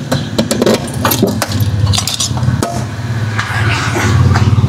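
Small engine idling steadily, with scattered metallic clinks and knocks of hand tools being rummaged through and picked up.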